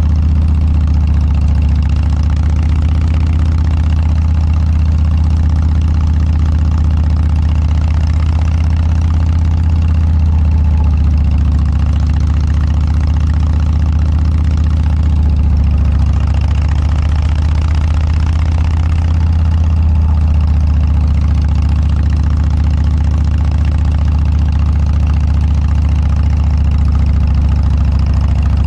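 Harley-Davidson Dyna's air-cooled V-twin running steadily through an aftermarket Motorstage muffler, a deep, even exhaust note.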